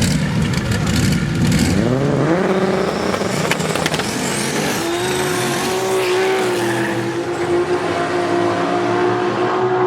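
Drag-race cars under full throttle: a deep engine rumble, then engine notes rising sharply through gear changes about two seconds in, settling into a long held note as they pull away.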